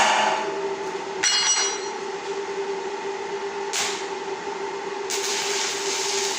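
A steady mechanical hum with a held tone. A short metallic ring comes about a second in, and a hiss joins about five seconds in.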